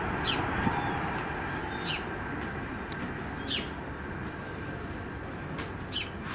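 A bird giving a short, falling chirp four times, about every second and a half, over a steady low rumble.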